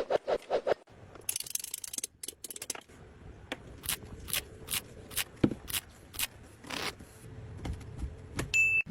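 Hands working with pipe and tools: a string of sharp clicks and taps, with a short scraping rush about a second and a half in.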